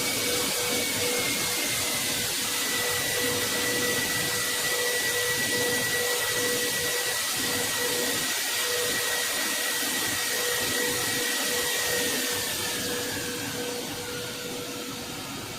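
Jet engines running with a loud rushing noise and a steady high whine. Near the end the whine slides down in pitch and the noise fades.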